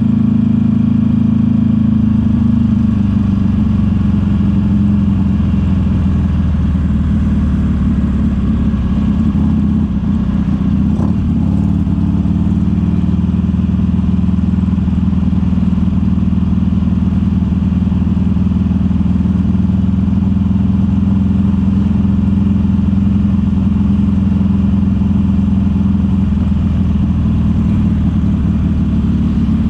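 Buell XB9SX's air-cooled V-twin with a D&D aftermarket exhaust running at a steady cruise, its note holding nearly the same pitch throughout, with a brief break about eleven seconds in.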